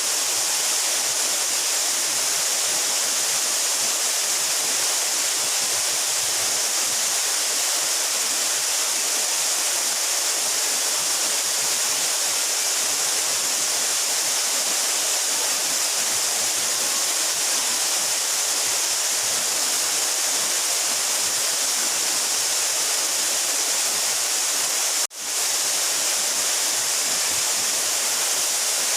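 A 12-metre mountain waterfall rushing steadily, a dense hiss of falling water. The sound breaks off for a split second near the end.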